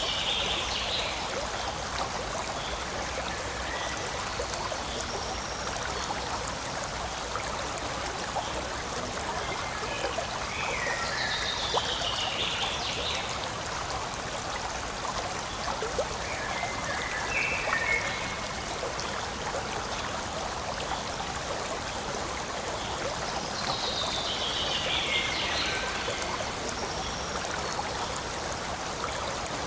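Forest stream flowing and trickling steadily. Three times, near the start, before the middle and near the end, a short high trill falls in pitch above the water, with one shorter call in between.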